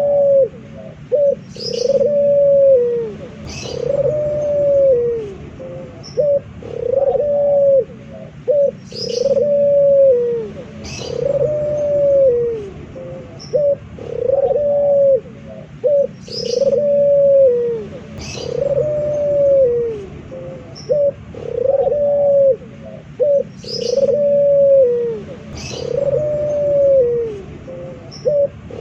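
Male puter dove (Barbary dove) cooing over and over, each phrase a short clipped note followed by a long arched coo, repeating about every two seconds. Brief high chirps of a small bird sound in between.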